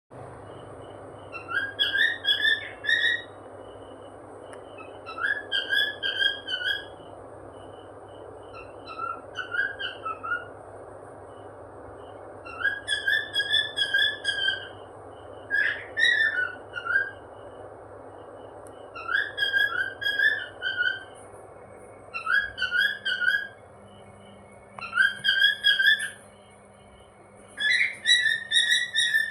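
Cockatiel whistling: nine short, warbling whistled phrases a few seconds apart, over steady background noise.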